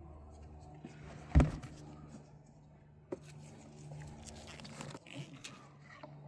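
Handling noises from work on the car's oil filter housing: a sharp knock about a second and a half in, a smaller click near three seconds, and light rustling, over a steady low hum.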